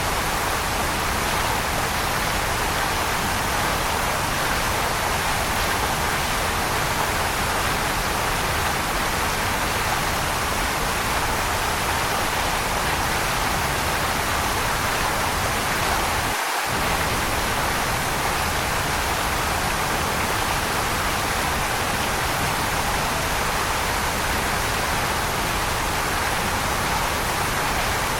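Waterfall: steady rushing water, an even, unbroken hiss strongest in the middle range. The low rumble drops out for a split second a little past halfway.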